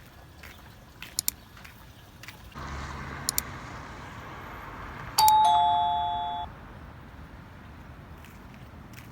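Two-note descending ding-dong of an electronic doorbell chime about five seconds in, fading out over about a second. It is preceded by a few sharp clicks and a low hum.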